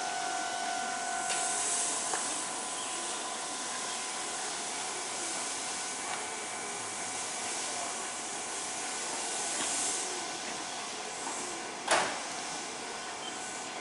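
Electric commuter train at a station platform: a steady hissing rush of train noise, with a faint steady tone fading out about a second in and a single sharp knock about twelve seconds in.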